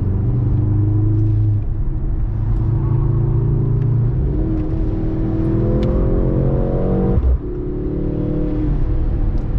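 Mercedes-AMG C63 S E Performance's 2.0-litre turbocharged four-cylinder pulling under load, heard from inside the cabin. The revs climb from about halfway, then drop abruptly about seven seconds in and settle steady again.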